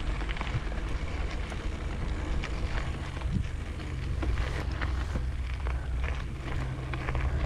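Wind buffeting the microphone as a mountain bike rolls along a trail, a steady low rumble with scattered clicks and rattles from the bike.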